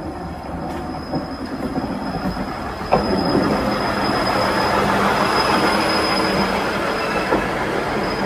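Diesel railcar pulling into the platform and slowing, its wheels giving a thin, high, steady squeal as it comes alongside. There is one sharp clack about three seconds in, and it grows louder as the cars roll past.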